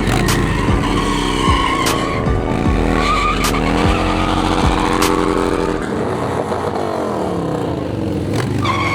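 Stunt motorcycle engine revving up and down repeatedly, with tyre squeal as the rear tyre spins and skids.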